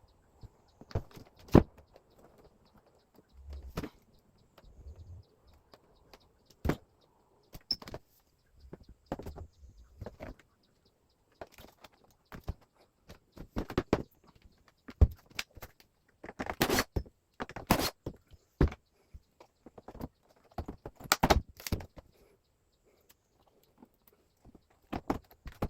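Irregular clicks, knocks and short scrapes of a wall-mounted air conditioner's parts being handled and taken apart, with a few longer rattling scrapes past the middle.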